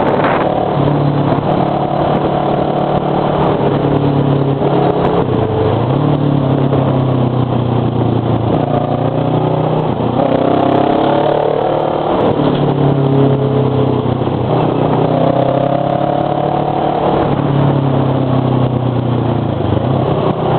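Motorcycle engine under way, pulling through the gears. Its pitch climbs and then drops again several times, as at gear changes, over steady wind and road noise.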